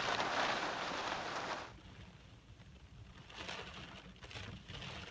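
Wind and heavy rain as a steady hiss that cuts off abruptly after about a second and a half. After that there is only faint, uneven noise with a few brief swells.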